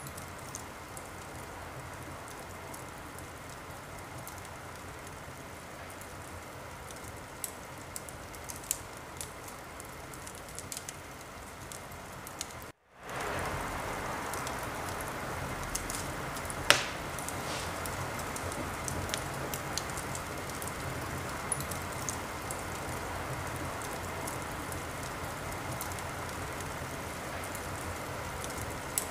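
Wood fire burning in a fireplace: a steady hiss with scattered crackles and pops. The sound drops out for a moment about 13 seconds in and comes back a little louder, and a few seconds later there is one sharp pop.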